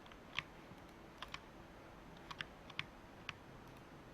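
Faint computer keyboard keys being pressed: about seven short clicks, unevenly spaced, some in quick pairs.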